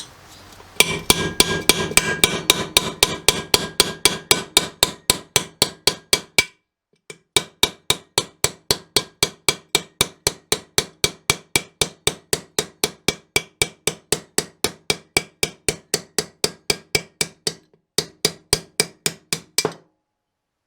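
Hammer blows on metal in a fast, even rhythm of about four strikes a second, each with a metallic ring. The hammering pauses briefly twice, about six seconds in and near eighteen seconds, and stops shortly before the end.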